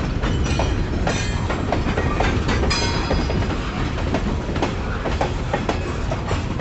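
Railroad cars rolling along the track with a steady low rumble, their wheels clacking irregularly over rail joints. Short high wheel squeals come through a few times.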